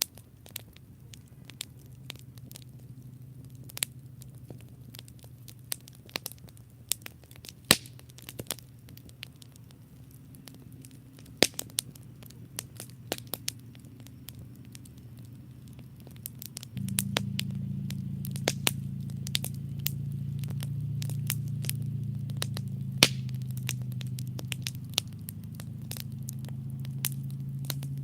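Wood campfire crackling, with irregular sharp pops and snaps. Beneath it runs a low steady rumble that becomes abruptly louder about 17 seconds in.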